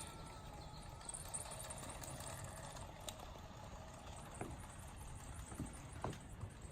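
G-scale garden railway train running on outdoor track: a faint, steady rumble, with a few short sharp sounds over it in the second half.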